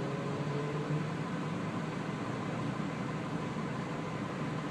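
Steady low hum with an even hiss of background noise.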